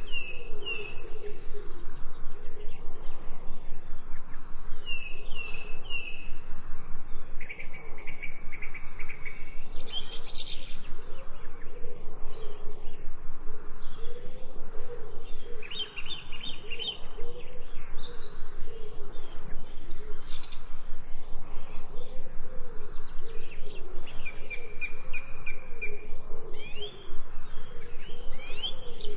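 Several songbirds chirping and singing, their short high calls and trills overlapping, over a low call that repeats steadily underneath.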